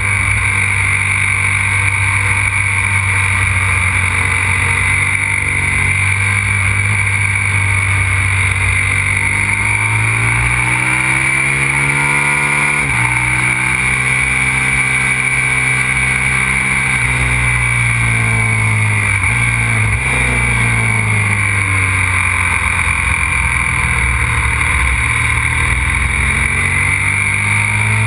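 Aprilia RXV 550 supermoto's V-twin engine running hard on a track. Its pitch rises and falls with the throttle, with a sharp drop at a gear change about 13 seconds in, over steady wind and road noise.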